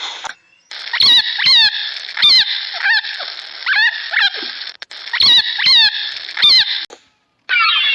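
A run of short, high animal calls with a bending, hooked pitch, about two a second over a steady background hiss. After a brief cut near the end, a dense chatter of higher calls begins.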